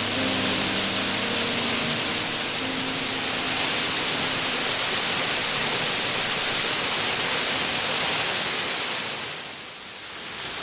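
Waterfall rushing steadily, a dense even hiss of falling water. Faint held music notes fade out over the first few seconds, and the water sound dips briefly near the end.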